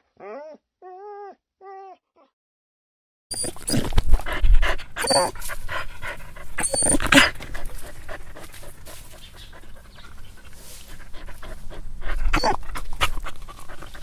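Dog whimpering in a few short, high, arching cries, then a brief gap. A different, louder recording follows, with breathy noise and scuffing knocks from the dog.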